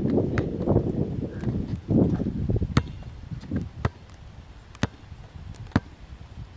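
A basketball bouncing on an outdoor court, sharp single bounces about once a second in the second half. Wind rumbles on the microphone during the first couple of seconds.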